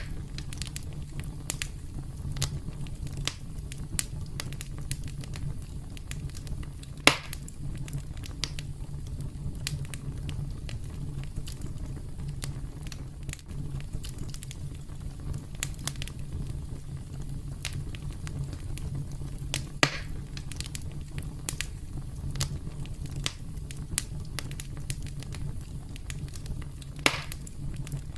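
Campfire crackling: a steady low rumble of burning wood with frequent small crackles, and three louder pops spread through, the sharpest about a quarter of the way in.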